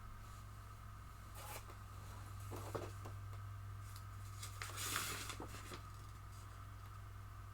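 A few faint, short rustling and handling noises over a steady low electrical hum.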